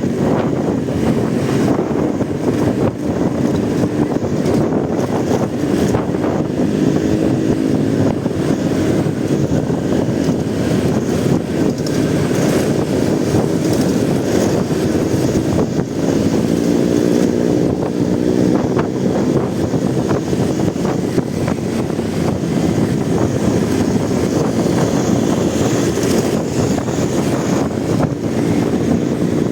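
Motorcycle engine running while riding, its pitch shifting up and down with the throttle, under wind rushing over the microphone.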